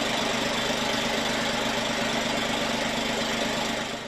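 A newly built BMW petrol engine running steadily on an end-of-line test rig: a steady hum with a fast, even mechanical clatter.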